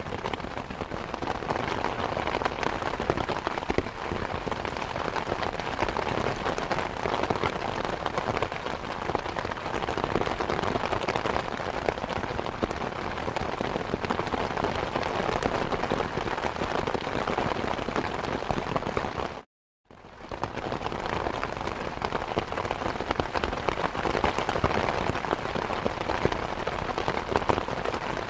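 Steady rain falling, a dense, even patter of many drops. About two-thirds of the way through it cuts out to silence for half a second, then fades back in.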